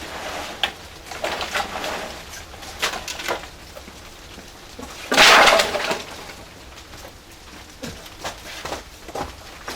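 Irregular crackling and popping from a traditional wood-fired kiln's firebox, with one louder rushing burst lasting about a second, some five seconds in.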